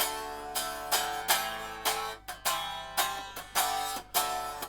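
Aria Pro II Thor Sound solid-body electric guitar strummed unplugged: a run of chords heard acoustically straight off the strings and body, each stroke ringing out. The guitar is springy and loud acoustically.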